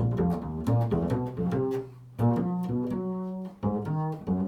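Improvised music: a low-pitched instrument playing a run of separate sustained notes, built on the interval of a fifth.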